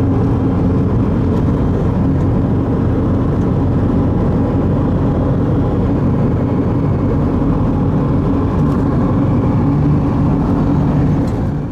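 Steady engine and road noise of a car driving at speed on the highway, heard from inside the cabin as a constant low drone.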